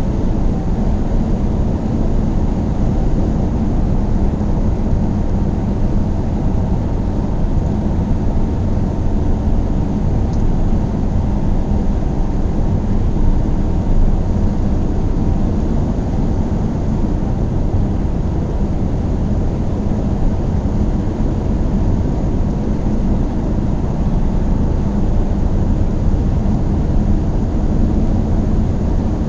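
A car driving at steady speed: a continuous low rumble of engine and tyres on the road, unchanging throughout.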